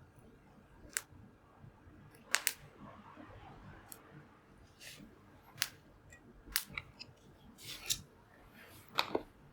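Wood campfire crackling, with sharp, irregular pops and snaps from the burning wood, the loudest about two seconds in and near the end.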